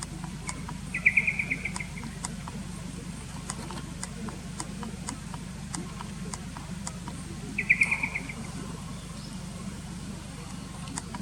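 Brambling calls: two short, rapid trills of repeated notes, about a second in and again about seven and a half seconds in, over a steady low hum with scattered faint ticks.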